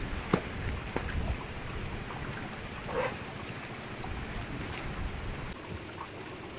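Outdoor ambience with a short, high chirp repeating about twice a second, from a calling animal. A few sharp clicks or knocks come in the first three seconds, over a low rumble.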